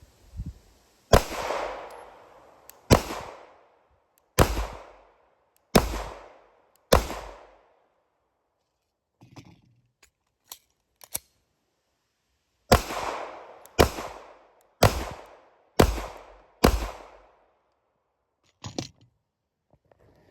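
Glock 19X 9mm pistol firing ten shots in two strings of five, about one shot every second or so, each shot ringing out briefly. A few faint clicks fall in the pause between the strings and after the second.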